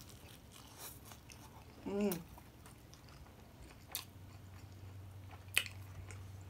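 Close-miked eating: chewing with a few sharp crunchy clicks, the loudest near the end, and a short hummed 'mmm' about two seconds in.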